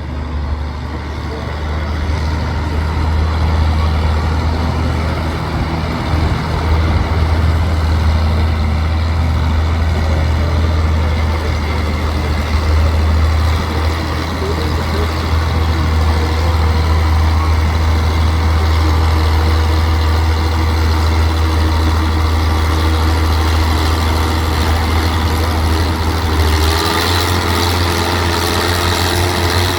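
Oliver 88 tractor engine running under load during a tractor pull, a loud, steady low drone throughout; about 27 seconds in the low note eases and changes.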